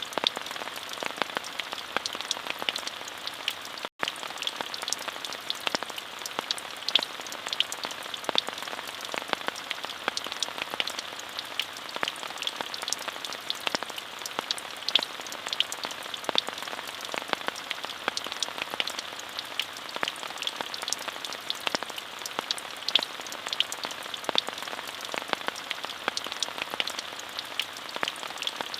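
Steady rain falling: an even hiss with many close, distinct drop ticks scattered through it. The sound cuts out for an instant about four seconds in.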